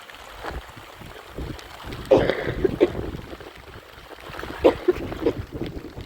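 Storm wind on the microphone with rain and splashing water, broken by irregular knocks and rustles.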